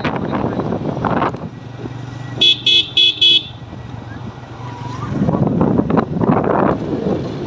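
A vehicle horn beeps four quick times, about two and a half seconds in, between stretches of wind buffeting the microphone.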